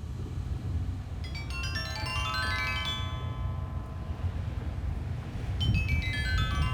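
Sanukite stone xylophone, tuned to A=432 Hz in a pentatonic scale, played in quick runs of clear, long-ringing notes. One run starts about a second in, and a second run falls in pitch near the end. Underneath is a steady low rumble of beach wind.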